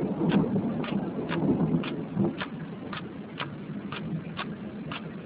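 Thunder rumbling from a close cloud-to-ground lightning strike, fading over the first two or three seconds. A regular sharp tick sounds about twice a second throughout.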